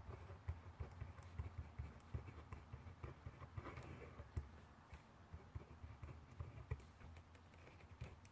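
Faint handwriting on paper: a run of small irregular scratches and light taps of the hand and writing tool against the desk, with a brief scratchier stretch about three and a half seconds in.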